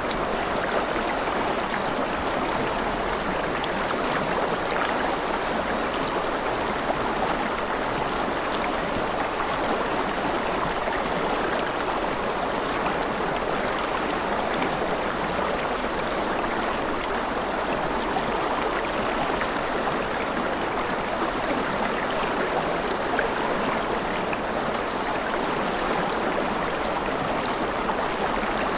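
Rushing river water: a steady, even rush of flowing water, with no change throughout.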